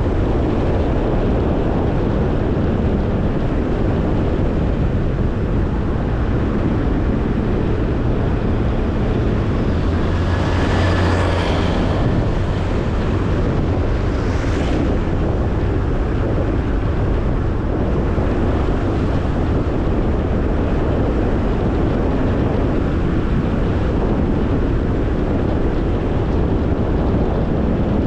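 Car driving, with steady road and wind noise. A brief higher hiss comes about ten seconds in and again about fourteen seconds in.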